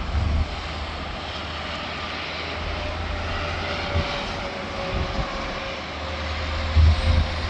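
Steady rumble and tyre roar of interstate traffic, swelling slightly as vehicles pass.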